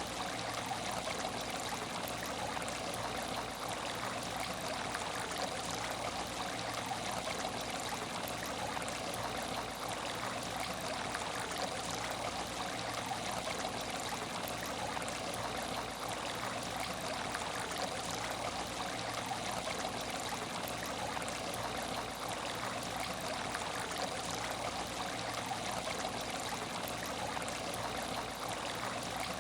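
Water in a fishless aquarium tank trickling and splashing steadily, with no change.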